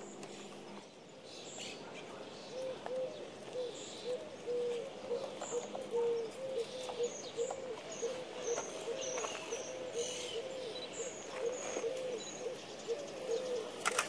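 A bird giving a long, even series of short low hoots, about two to three a second, with small birds chirping faintly high above in the middle.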